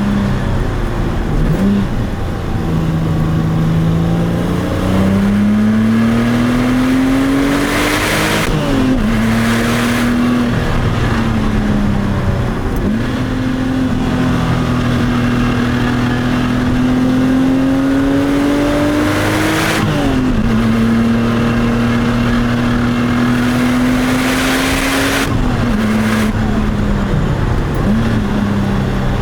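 Porsche 996 Turbo's twin-turbo flat-six accelerating through the gears of its manual gearbox. The engine note climbs slowly for several seconds, then falls sharply at each upshift, twice over long pulls. Each drop comes with a rush of hiss.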